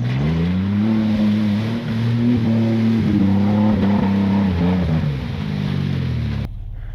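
Mud truck's engine revving up and held at high, wavering revs, then easing off near the end. About six and a half seconds in it cuts suddenly to a lower steady hum.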